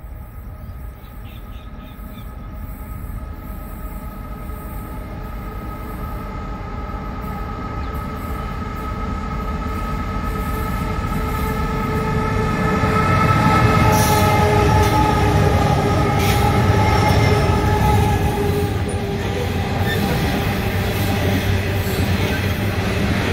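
Diesel locomotives hauling a loaded coal train, their engines growing steadily louder as they approach and pass about halfway through. The rumble of loaded coal hopper wagons rolling by follows, with a few sharp wheel clicks.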